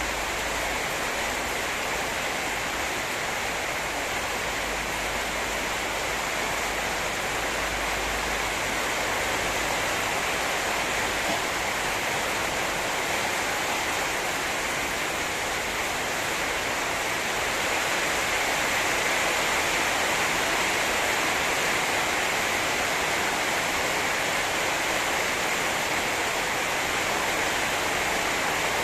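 Heavy rain pouring down in a steady, even hiss, growing a little louder about two-thirds of the way through.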